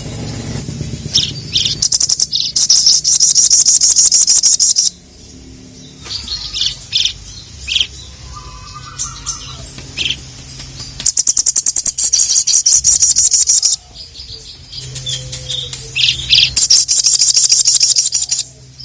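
Sogon (sogok ontong, the little spiderhunter) singing: fast, loud, high-pitched chattering trills in three long runs, with short sharp calls in between.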